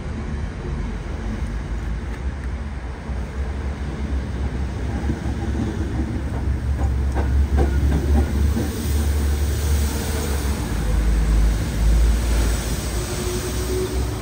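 A train running past on the line, a heavy rumble with a few wheel clicks near the middle, growing louder and hissier through the second half. Wind buffets the microphone underneath.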